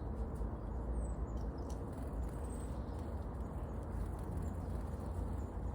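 Steady low rumble of outdoor background noise, with a couple of faint, brief, high-pitched chirps from tits, about one and two and a half seconds in.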